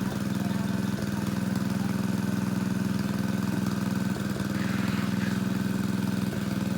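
Engine of a water pump running steadily while it pumps a pond dry, an even hum.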